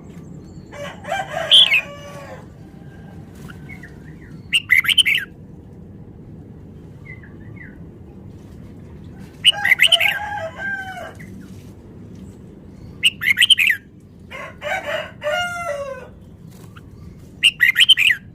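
Red-whiskered bulbul singing in quick warbled phrases, about six short bursts separated by pauses of one to three seconds, over a steady low background hum.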